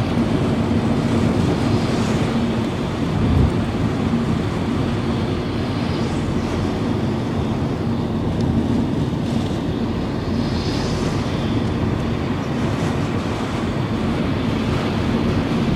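Steady noise inside a car driving through heavy rain: tyres on a flooded road and engine hum, with several brief swishes of water spray against the car.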